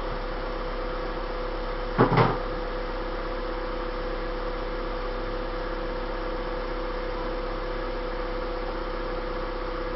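Hyundai Tiburon four-cylinder engine idling steadily with its new 4-1 exhaust header. A sharp double knock about two seconds in.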